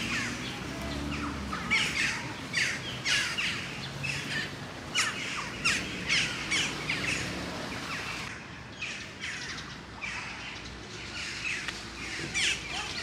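Small birds chirping: short, sharp calls repeated about a second apart, with a brief lull about two thirds of the way through.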